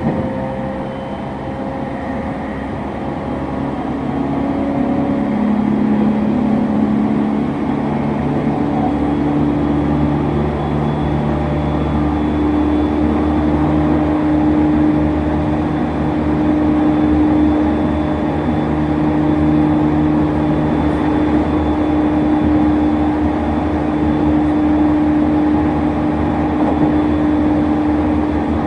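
E231 series 1000 commuter train running, heard from inside the car: the whine of its original, not yet renewed VVVF inverter and traction motors over a steady rumble of wheels on rail. The motor tones step up in pitch during the first dozen seconds, then settle into one steady hum.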